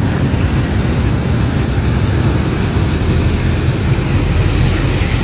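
Steady rumbling, hissing noise, heaviest in the low end, with no distinct events.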